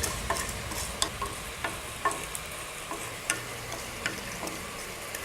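Whole spices being roasted in a pan and stirred, with a faint sizzle and scattered light clicks and scrapes from the seeds and the spoon.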